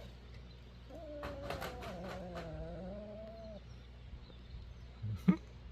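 A pet's low growl, about three seconds long, wavering up and down in pitch, with light clicks and scuffling over its first half. A single sharp knock comes near the end.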